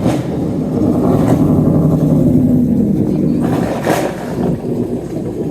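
A muscle car's engine and exhaust as it drives out. The low engine note builds after about a second, holds strongest for a couple of seconds, then fades.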